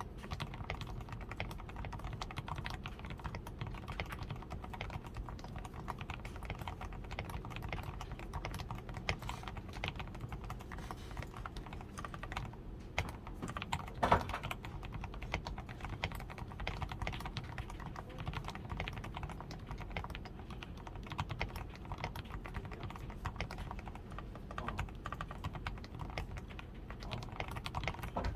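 Continuous typing on a DAREU A87 Pro mechanical keyboard with fully lubed switches, a PCB tape mod and XDA keycaps: a steady run of soft keystrokes, with one heavier keystroke about halfway through.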